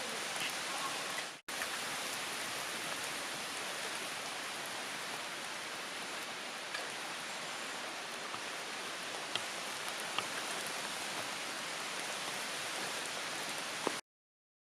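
Steady rain falling, an even hiss with a few sharper drop ticks. The sound drops out for a moment about a second and a half in and cuts off abruptly near the end.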